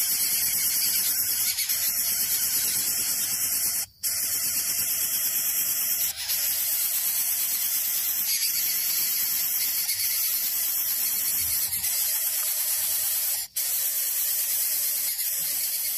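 Nestling bird begging with a continuous high, hissing squeal, broken twice by brief cuts.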